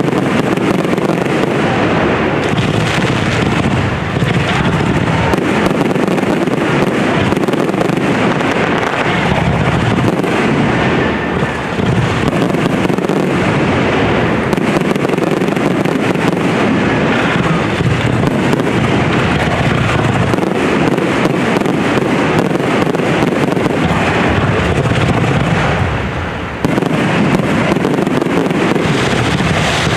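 Fireworks display: aerial shells bursting and crackling in a dense, continuous barrage, with only a brief lull near the end.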